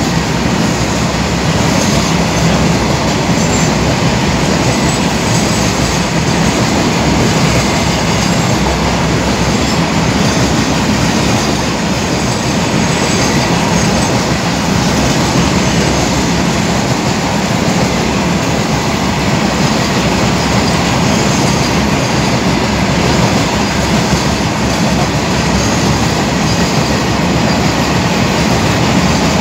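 Long freight train of covered goods wagons rolling past close by: a loud, steady, unbroken noise of wagon wheels running on the rails.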